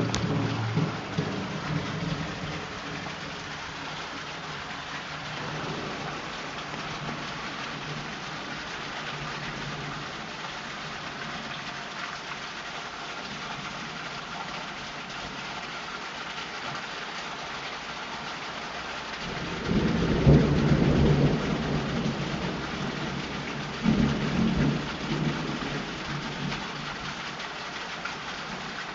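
Heavy rain pouring steadily in a thunderstorm. Thunder rumbles and fades over the first few seconds, then a louder rumble comes about twenty seconds in and a shorter one a few seconds after that.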